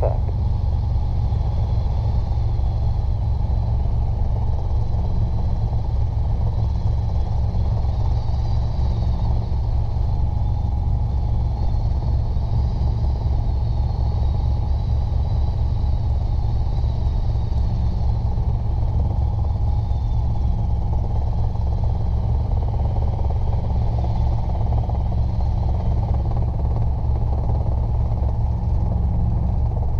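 Robinson R22 helicopter in flight, heard from inside the cabin: the steady, loud drone of the piston engine and two-blade main rotor, with a fast, even rotor beat.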